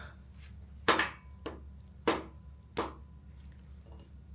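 Hammer blows on metal engine parts during a teardown of an 8.1L V8: three sharp strikes about two-thirds of a second apart with a lighter tap between the first two, the first leaving a brief metallic ring, and a faint knock near the end.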